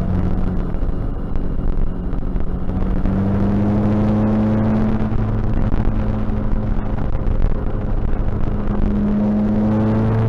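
Tuned Seat Ibiza TDI diesel engine heard from inside the car, running as a steady drone that climbs slowly in pitch as the car gathers speed.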